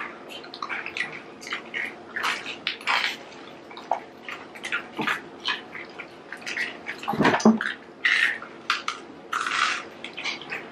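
Close-up mouth sounds of people eating garlic bread pizza: irregular wet chewing and lip-smacking clicks throughout, with a louder bump about seven seconds in.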